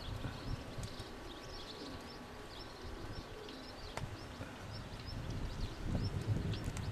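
Small birds chirping: many short, high, quickly falling chirps in irregular runs, over a low wind rumble.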